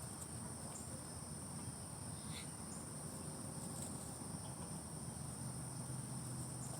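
A steady, high-pitched chorus of insects shrilling without a break, over a low rumble.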